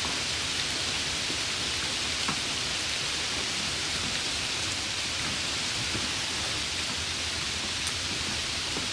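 Steady rain: a dense, even hiss with a few faint droplet ticks scattered through it.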